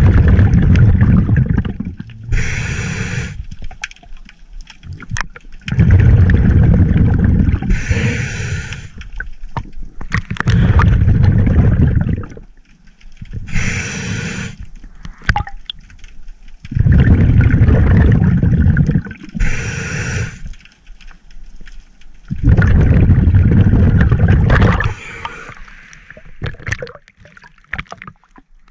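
Scuba diver breathing through a regulator underwater, five breaths. Each breath is a short hiss on the inhale, then a long, loud rumble of exhaled bubbles.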